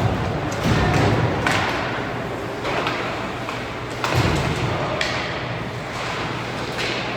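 Ice hockey game sounds in an echoing arena: a steady wash of play noise broken by several hard thuds, as of the puck and players hitting the boards.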